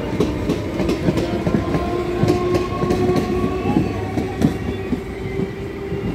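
Electric multiple-unit suburban train running at speed, heard from its open doorway. Steel wheels clack irregularly over rail joints over a steady rumble, with a constant hum from the train's motors.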